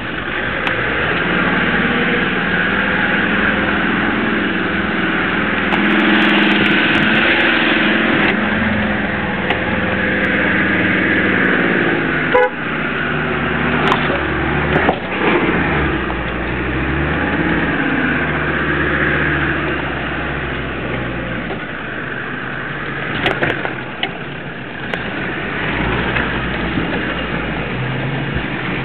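Off-road 4x4's engine running, heard from inside the cab while it crawls over a rough, muddy track, its note rising and falling with the throttle. A few sharp knocks and rattles from the body jolting over the ruts come through mid-way and again later.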